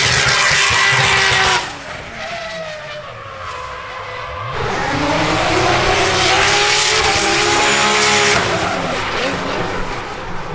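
Drift car sliding with its engine revving hard and tyres screeching. A loud burst of tyre noise cuts off suddenly about a second and a half in, then the engine revs climb and fall again with more tyre screeching from about five to eight seconds in before it fades.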